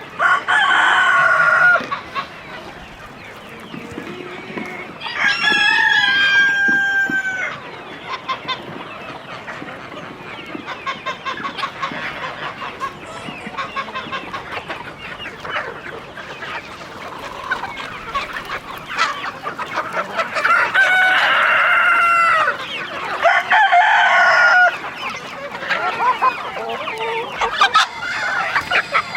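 Free-range chickens: roosters crowing several times, long drawn-out crows about five seconds apart and again near the end, over hens clucking steadily in between.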